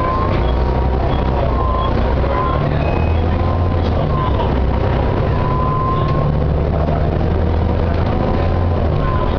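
Volvo B7TL double-decker bus running, with the low rumble of its diesel engine under a high whine that glides gently up and down in pitch. This is the gearbox whine the bus is known for.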